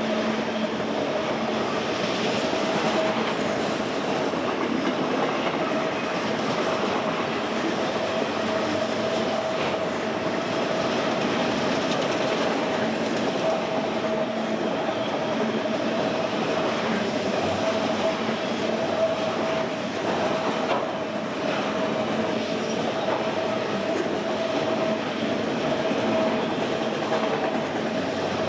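Freight train rolling steadily past, steel wheels on rail with a light clickety-clack and a steady whine running through the noise.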